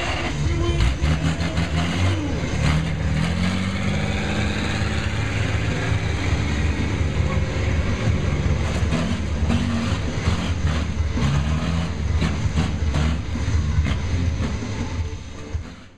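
Monster truck engine running loud and revving, its pitch rising and falling repeatedly, with many short knocks and rattles over it; the sound cuts off suddenly near the end.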